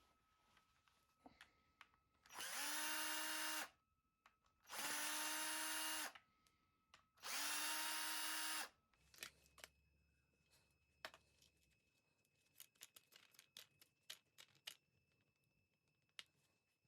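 Cordless drill-driver running in three short bursts of about a second and a half each, its whine rising quickly and then holding steady. Light clicks and taps follow in the second half.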